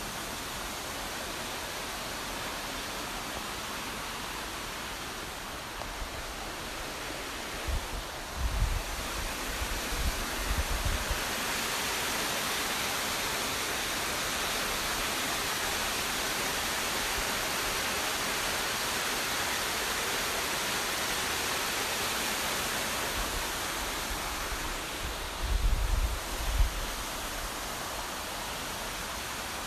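Steady rushing of a waterfall, a wide even hiss that swells slightly in the middle. Low rumbling bumps come twice, about eight seconds in and again near the end.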